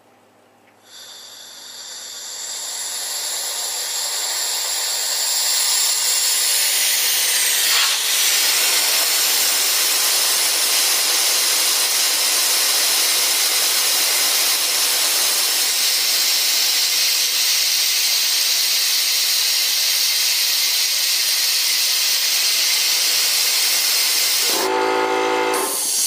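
Compressed air hissing loudly out of an air compressor's tank, building over the first few seconds and then holding steady as the tank pressure bleeds down toward the pressure switch's cut-in point. Near the end a short pitched drone joins it, then the sound cuts off abruptly.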